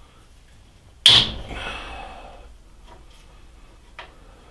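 A single sharp metallic clank about a second in, ringing briefly as it fades, followed by a faint click near the end: a steel tool or part knocking against the lathe's cast-iron under-drive.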